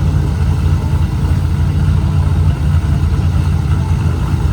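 Chevrolet Corvette C7's V8 engine idling, a loud, steady deep rumble.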